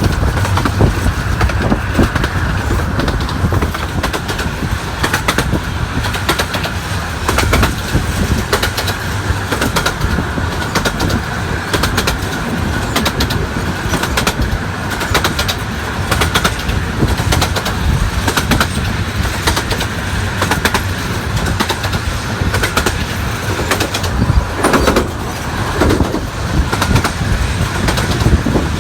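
A 15-inch gauge miniature railway train running: a steady low rumble with dense, rapid clicking and a constant higher hiss.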